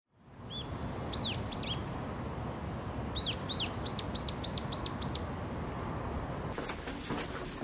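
A bird calling in short, sharp chirps over a steady high-pitched buzz. The chirps come singly at first, then in a quick run of about eight. Both stop abruptly near the end, giving way to quieter sound with scattered clicks.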